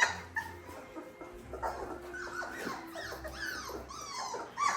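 Three-week-old Labrador Retriever puppies whimpering and squeaking: many thin, short cries overlapping, growing louder near the end.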